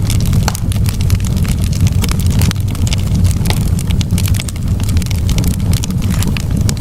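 Wood campfire burning, with a steady low rumble under frequent sharp crackles and pops.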